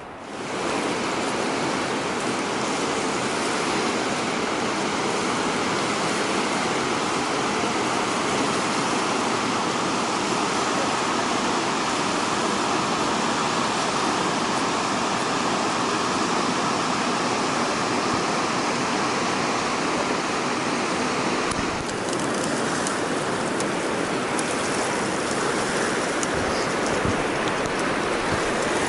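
The Colorado River rushing: a steady, quite loud roar of moving water with no let-up, and a few faint ticks over it in the last several seconds.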